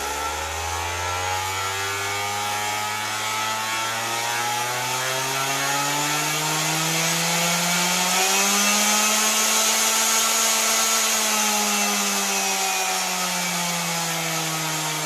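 Skil 7461 260-watt random orbital sander running free, off the workpiece. Its motor pitch rises steadily for about eight seconds, then falls again.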